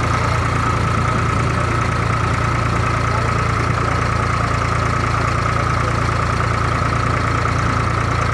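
A steady engine drone with a constant low hum and a steady high tone, unchanging throughout.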